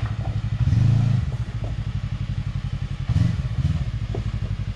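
Side-by-side UTV engine idling with a fast, steady chugging, rising briefly twice as the throttle is blipped while the machine crawls over rocks.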